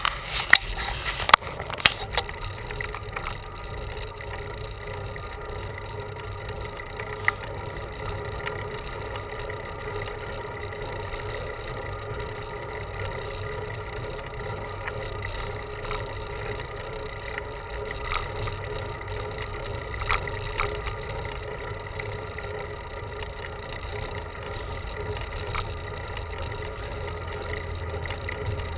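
Bicycle riding on a road: steady tyre and drivetrain noise, with a few sharp clicks in the first two seconds and a low rumble building near the end.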